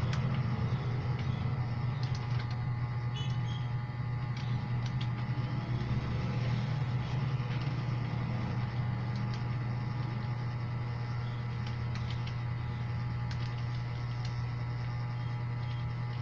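Steady low hum with a few scattered keyboard key clicks, sparse rather than continuous typing.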